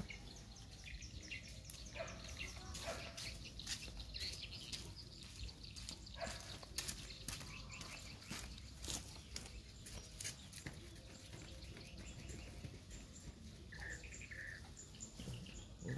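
Faint bird chirping in the background, with scattered light clicks and rustles.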